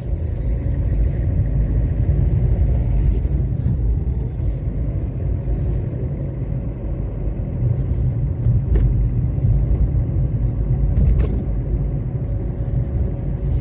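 Steady low rumble of a running car heard from inside the cabin, with a faint steady hum over it and two light clicks, about 9 and 11 seconds in.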